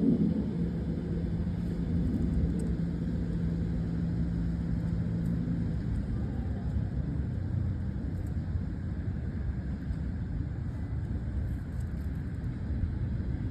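City street traffic: a low steady rumble of road vehicles, with an engine humming steadily for the first half that then fades.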